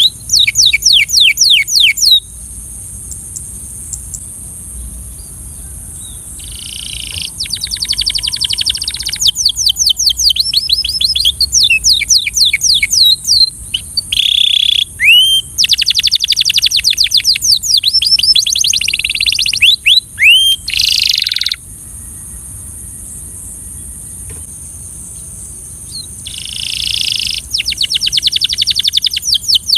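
Belgian canary singing long phrases of fast repeated trilled notes and rising whistled sweeps, with pauses of a few seconds between phrases, over a steady high hiss.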